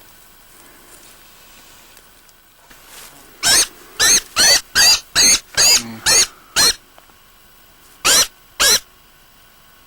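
Small bird, trapped or injured, giving loud, harsh distress cries: eight in quick succession starting about three and a half seconds in, then two more near the end.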